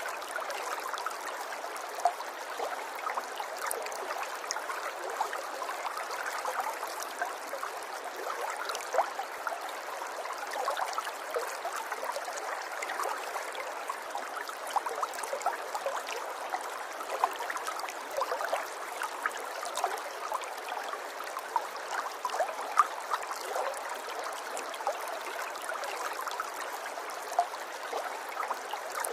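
River water flowing and trickling steadily, with many small gurgles and splashes.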